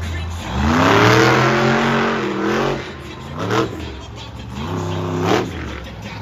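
Monster truck engine revving hard. It climbs steeply about half a second in and holds high for a couple of seconds, then gives two short, sharp throttle blips.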